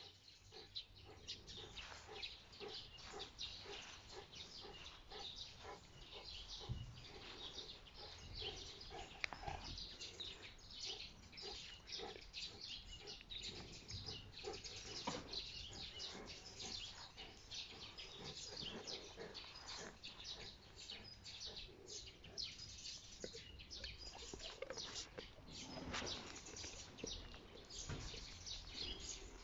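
Small birds chirping: many short, high chirps in quick succession, faint.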